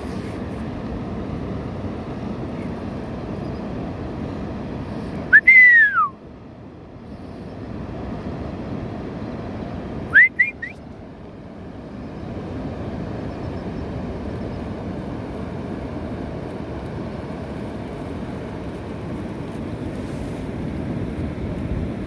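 Gull calling twice over a steady rushing background noise: a loud call about five seconds in that rises briefly and then slides down in pitch, and a shorter cluster of two or three quick notes about ten seconds in.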